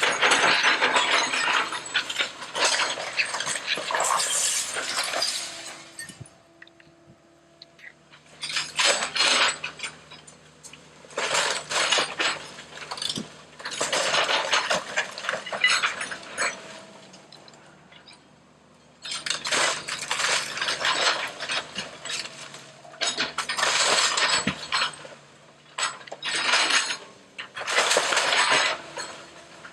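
House demolition: wood and building debris cracking, splintering and tumbling down in about seven bursts of crackling and crashing, each a few seconds long, with quieter gaps between.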